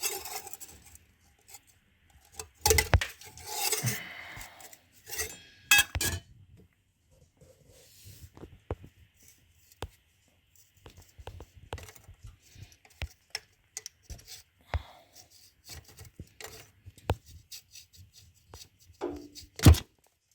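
Metal tools and engine parts clinking, knocking and scraping as they are handled during disassembly of the engine's cylinder head. There are irregular clicks throughout, with bursts of clatter a few seconds in and a loud knock near the end.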